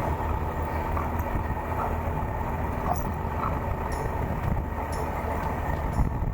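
Suzuki GSX1400 motorcycle being ridden, its inline-four engine running as a steady low drone with road noise.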